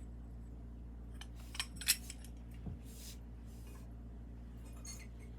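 Small glazed ceramic pieces clinking and tapping as they are handled and set down, with two sharp clinks just under two seconds in.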